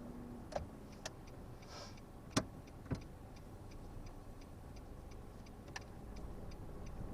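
Quiet car cabin: a low steady engine and road hum, with a turn indicator ticking evenly about two and a half times a second. A few sharp clicks and knocks come in the first three seconds, the loudest about two and a half seconds in.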